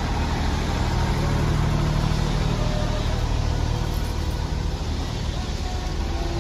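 Heritage steam train's carriages rolling slowly past at walking pace as the train pulls out, a steady low rumble with a hum that swells and fades in the first half.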